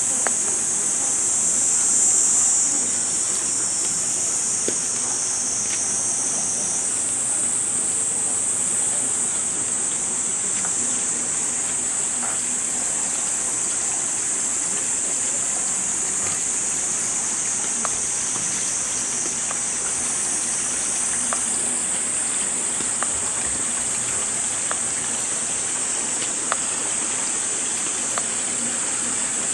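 Insects buzzing in a steady high-pitched chorus over the even rush of flowing water.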